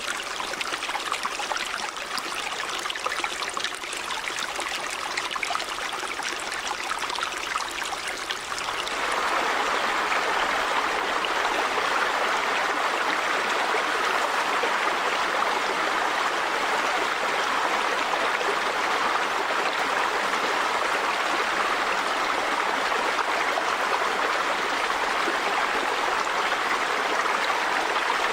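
River water flowing in a steady rush. About nine seconds in the rush becomes louder and fuller, and holds there.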